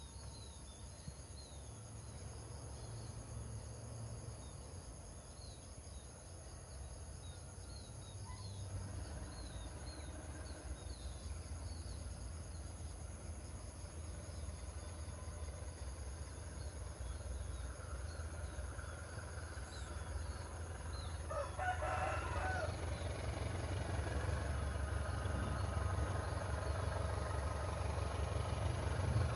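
Low rumble of a diesel-hauled passenger train, faint at first and growing steadily louder as it approaches. A rooster crows once about two-thirds of the way through, and small birds give quick high chirps in the first few seconds.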